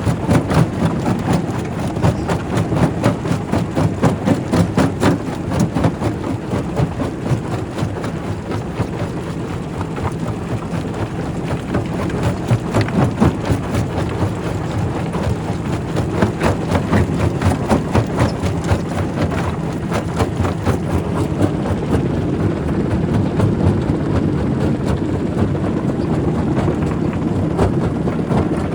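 Primary rock crusher running: a steady, heavy low drone with spells of rapid knocking and clatter as rock is broken. The knocking is densest through the first six seconds, around the middle and again a little after, then eases toward the end.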